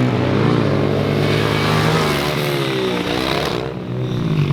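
Small four-stroke pit bike engine running and revving, its pitch rising and falling over a steady low drone.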